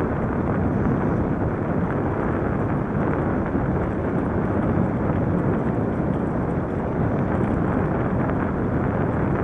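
Steady wind rush and rolling road noise while riding an electric bike, with no pitched whine, clicks or knocks standing out.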